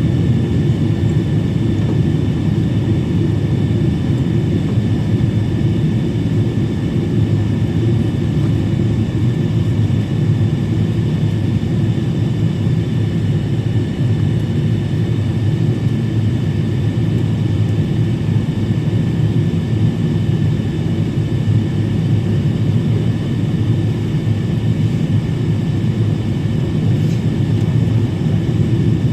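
Boeing 777-300 airliner heard from inside the cabin on its approach for landing: a steady, dense rumble of engines and airflow, with a few faint steady high tones above it.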